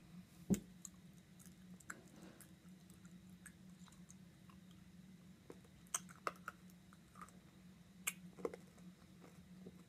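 Chewing a mouthful of crunchy Nerds candy: faint scattered crunches and clicks, with one sharp knock about half a second in. A steady low hum runs underneath.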